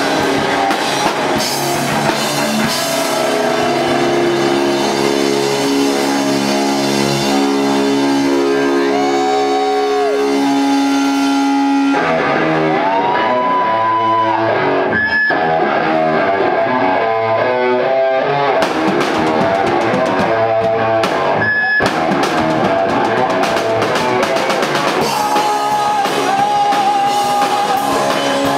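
Rock band playing live: electric guitar with held notes and bent notes that slide in pitch, over a drum kit.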